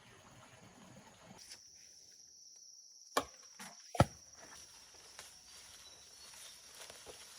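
A steady high insect trill starts about a second and a half in. Two sharp knocks come near the middle, under a second apart, the second one louder.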